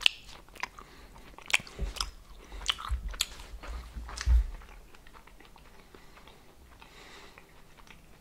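Close chewing of a hard dried sausage snack, with sharp clicks and low jaw thuds that die down after about four and a half seconds.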